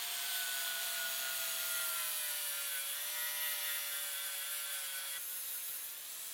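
Angle grinder running, its steady high whine sagging a little in pitch around the middle and rising again near the end, as when it is pressed against the work, over a rubbing, grinding hiss.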